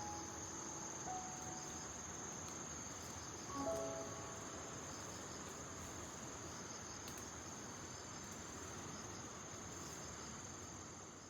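Steady high-pitched insect trill, typical of crickets, over a soft hiss, with a brief cluster of tones about three and a half seconds in; it fades out near the end.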